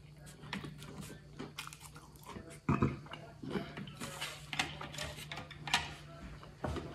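Close-miked chewing of sushi with the mouth closed: soft wet smacks and clicks in an uneven stream, with one louder thump a little under three seconds in, over a faint steady hum.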